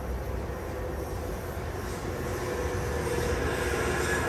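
Long Island Rail Road train on the move: a steady rumble of wheels on rail that grows slowly louder, with a faint whine coming in near the end.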